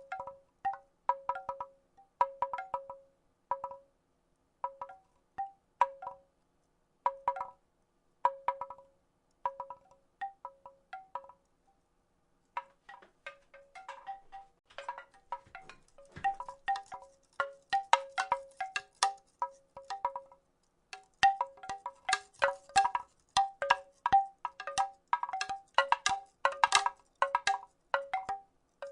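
Wooden rattle clattering: hollow wooden clacks that ring with the same few pitches, in short sparse clusters at first. After a brief pause about twelve seconds in, the clacks come faster and denser.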